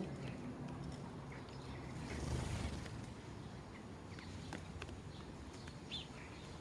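Sparrows chirping: scattered short chirps over a low background rumble that swells briefly about two and a half seconds in.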